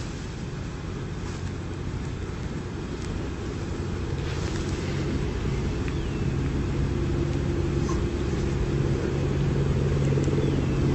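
Air rushing over the descending New Shepard booster as it falls back into the atmosphere, heard as a steady rumble that slowly grows louder. A low steady hum comes in about four seconds in.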